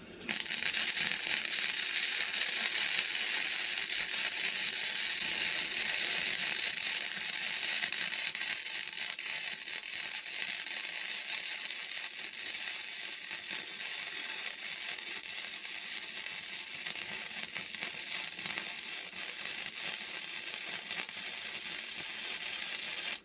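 Gasless flux-cored MIG welding arc crackling and sizzling steadily as a bead is run. It starts just after the start and cuts off abruptly when the trigger is released.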